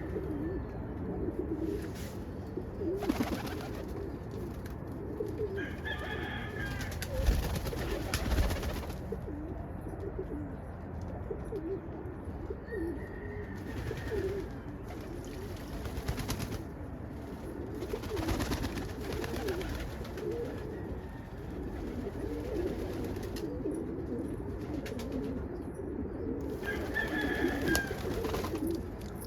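A flock of pigeons cooing together, a continuous low warbling, with several short rustling noises and a few brief higher calls.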